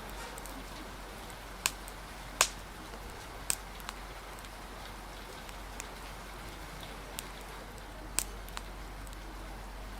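Steady rain hiss with the scattered sharp pops of a crackling wood fire, about eight in all. The loudest pop comes about two and a half seconds in.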